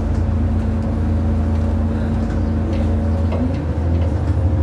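Bus engine and running gear droning steadily from inside the passenger saloon, a deep continuous rumble with a few faint rattles.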